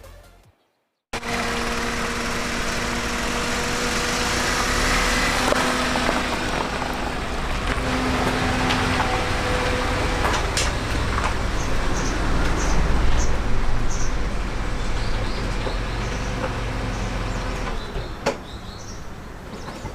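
Car running, with a steady rumble and road noise and a faint steady hum.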